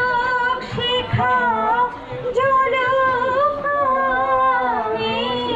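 A woman singing a melody of long held notes with ornamental glides between them.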